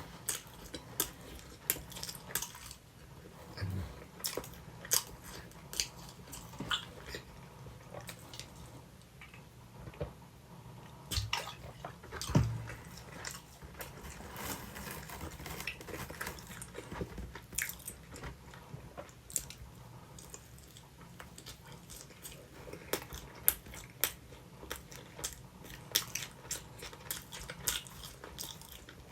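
Close-up chewing and biting of sweet potato pizza: crisp crust crunching, wet mouth smacks and irregular clicks, with a few soft low thumps.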